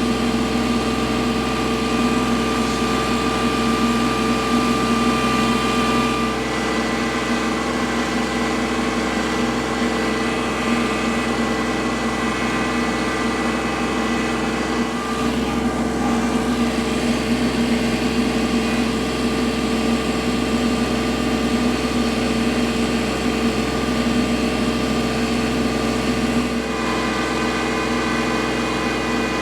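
Kubota L3301 compact tractor's diesel engine running steadily under load while clearing snow, its note shifting slightly a few seconds in and again near the end.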